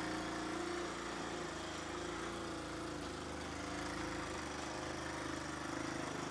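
Vehicle engine running at a steady, constant hum with even road-like noise, no change in pitch or level.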